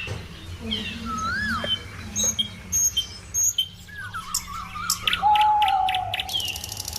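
Birds chirping and whistling, with rising-and-falling notes and short repeated chirps, over a steady low hum. A steady held tone starts about five seconds in.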